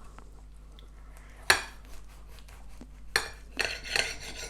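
Knife clinking and scraping on a plate while cutting through a chicken wrap: one sharp clink about a second and a half in, then a cluster of clinks and scrapes near the end.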